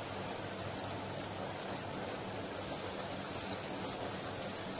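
Breadcrumb-coated potato and pea cutlets deep-frying in hot oil: a steady sizzle with small crackling pops.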